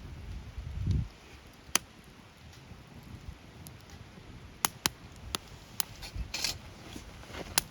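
Wood fire burning, with sharp irregular pops and crackles from the burning wood, several coming close together past the middle, and a brief hiss just after. A low rumble about a second in.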